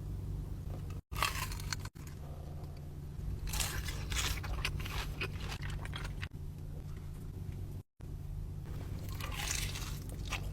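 Close-up mouth sounds of biting into and chewing crunchy fried appetizer food, in several bouts of crisp crunching with softer chewing between, over a steady low hum. The sound drops out completely for an instant a few times.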